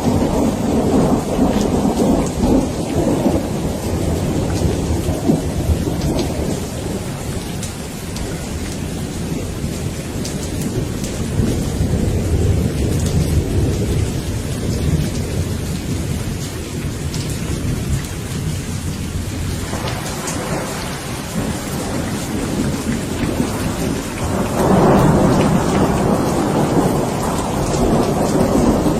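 Steady rain with rolling thunder rumbling underneath, the rumbles swelling and fading; a louder roll of thunder builds about 25 seconds in.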